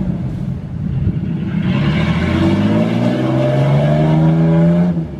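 Truck engine revving under load, its pitch climbing steadily for about three seconds before it drops off near the end, during an attempt to get a stuck truck out of deep floodwater.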